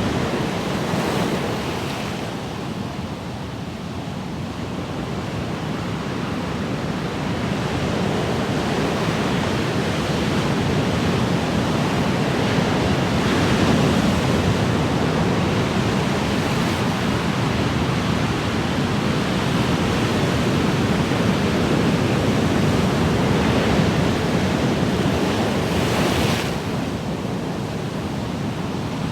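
Ocean waves washing on a shore: a continuous surf rush that swells and eases, with a brighter wash of a breaking wave at about 26 seconds.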